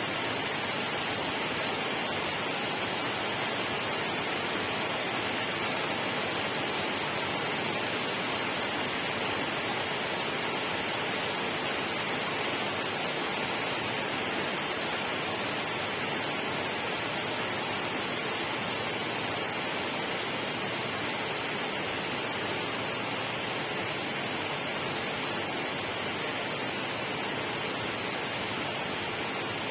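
Steady, unbroken rushing of water, an even hiss with no separate drops or splashes.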